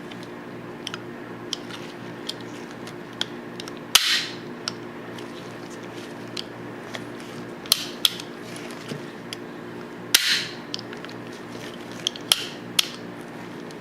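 Metal parts of a Tokarev TT-33 pistol clicking and scraping as it is handled and fitted together during reassembly: scattered sharp clicks, with two louder clicks followed by a short metallic scrape, about four seconds in and again about ten seconds in. A steady low hum runs underneath.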